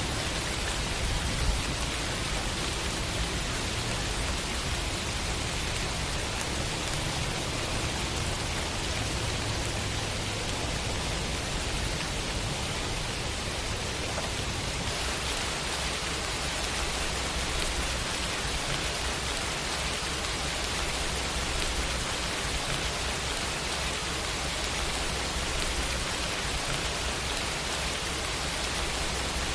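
Steady rain falling, an even dense hiss with no let-up. It turns a little brighter in tone about halfway through.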